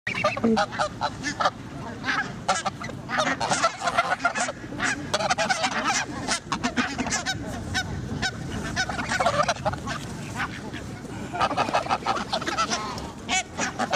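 A flock of geese honking, many short calls overlapping one another in quick succession.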